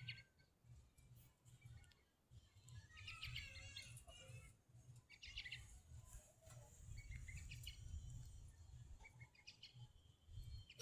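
Faint bird chirps, a few short calls spaced a couple of seconds apart, over a low rumble.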